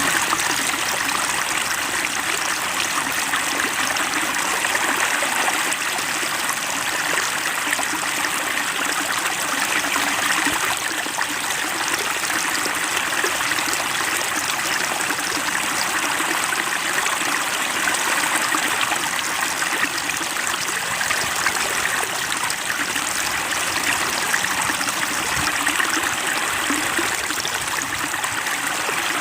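Steady trickling and splashing of water running into a fish pond.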